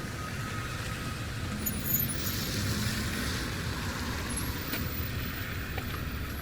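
Steady road traffic: vehicles running along a city street, one passing a little louder about two seconds in.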